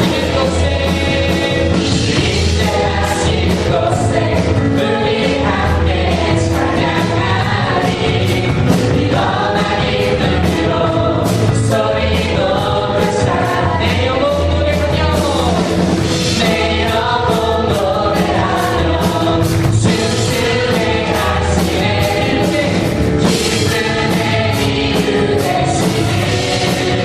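Praise team singing a worship song together with band accompaniment: group vocals over a steady beat and bass.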